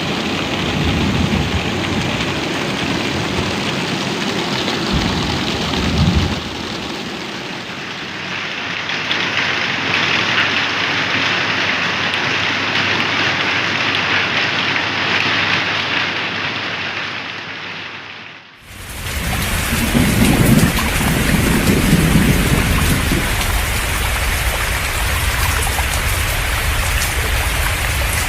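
Heavy rain pouring steadily, with several low rumbles swelling and fading. About two-thirds of the way through, the sound briefly dips and comes back with a different, fuller texture.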